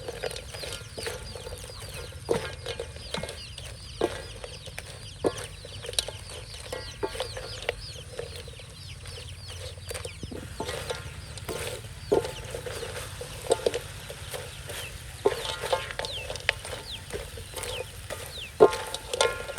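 Chickens clucking in short repeated calls, with sharp clicks and faint high chirps in between.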